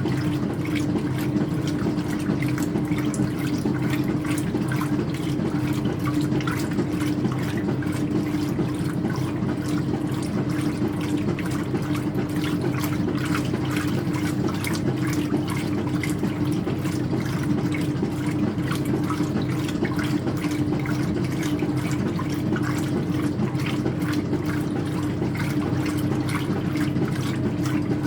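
Speed Queen top-loading washer with an agitator running mid-cycle on a load of towels: steady water noise inside the tub over an even, unbroken hum.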